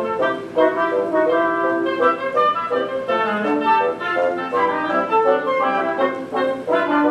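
Live orchestra playing, with many pitched notes changing quickly.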